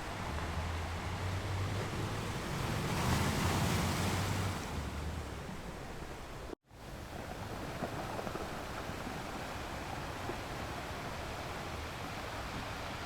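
Ocean surf washing on a beach: a wave swells and breaks about three to four seconds in, then the sound drops out completely for an instant a little past halfway before the steady wash of surf resumes.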